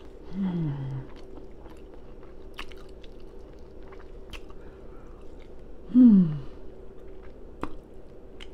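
Open-mouthed chewing and lip smacking on forkfuls of fried rice and fried fish, with many short wet clicks. Twice the eater gives a short low vocal sound that falls in pitch, near the start and a louder one about six seconds in.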